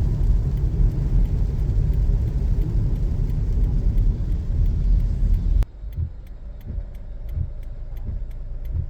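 Road noise of a moving car heard from inside, a steady low rumble. About two-thirds of the way through it cuts off abruptly and drops to a quieter, lower rumble.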